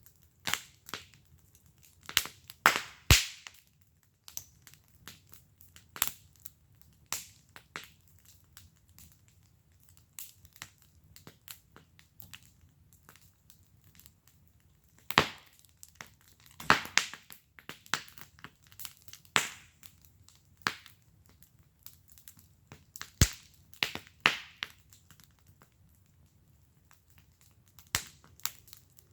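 Wood fire burning in a fire pit, crackling with irregular sharp pops, a few of them much louder than the rest.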